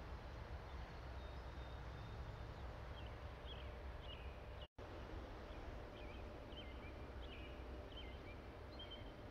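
Quiet outdoor ambience: a steady low rumble with small birds chirping in short, repeated calls from about three seconds in. The sound cuts out briefly about halfway.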